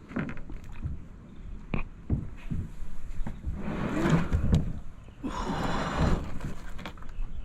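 Kayak paddle strokes: two swishing pulls through the water, a little over a second apart, among scattered low knocks and bumps.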